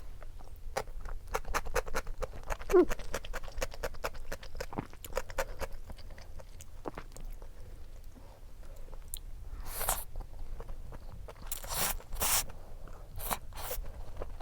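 Close-miked eating of buckwheat noodles and dumplings: wet chewing with many small mouth clicks, then a few short, louder hissy sounds in the last few seconds.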